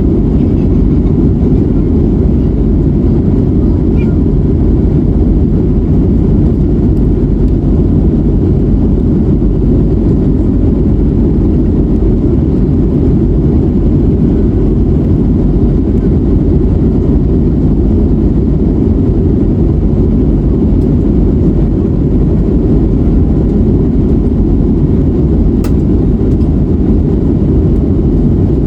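Airbus A321neo cabin noise from a window seat: the Pratt & Whitney geared turbofans at climb power give a loud, steady low roar, with one faint click near the end.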